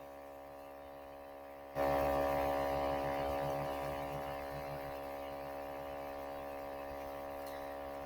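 Steady electrical mains hum with many overtones, typical of a loose or disconnected audio jack. About two seconds in it suddenly gets louder and picks up a hiss, then slowly eases back down.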